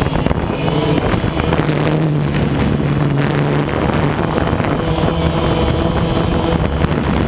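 A motor vehicle engine running steadily, with road and wind noise on the microphone.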